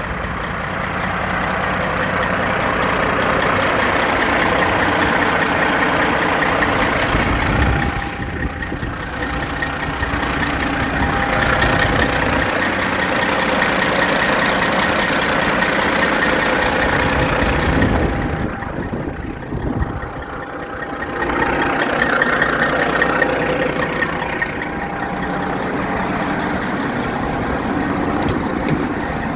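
Heavy diesel engine of a 2007 International 9900i tandem-axle dump truck running steadily, dropping off briefly about 8 seconds in and again around 19 to 21 seconds.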